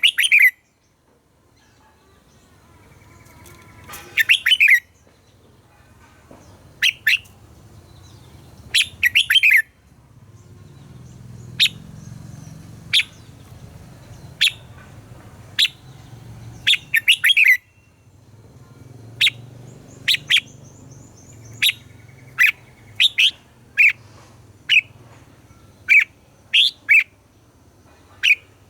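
Red-whiskered bulbul singing: short, bright phrases of a few quick notes a few seconds apart, then single sharp notes about once a second through the second half.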